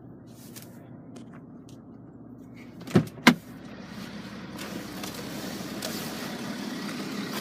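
BMW X5 xDrive40d's 3.0 turbo diesel running at idle, a steady low hum. Two sharp knocks come close together about three seconds in, and after them the engine and air noise grow gradually louder.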